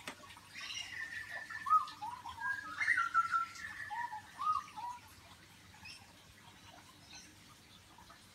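A bird calling nearby: a run of pitched, warbling notes with short rising-and-falling glides, lasting about four seconds and ending about five seconds in. A few faint chirps follow.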